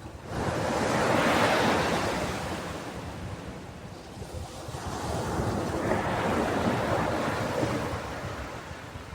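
Ocean waves breaking on a beach, two waves in turn. The first surges in suddenly about half a second in and dies away over a few seconds; the second swells up more gradually and fades near the end.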